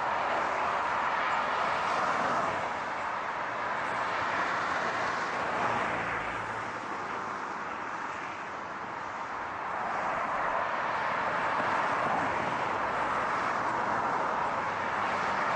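Car driving, a steady rush of road and tyre noise with no distinct engine note; it eases a little around the middle and builds back up.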